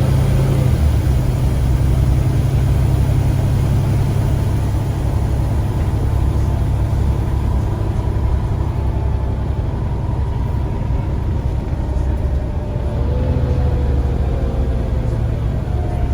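Scania CN94UA bus engine running on the move, with a drop in engine note shortly after the start and the note rising again as it pulls harder about three-quarters of the way through.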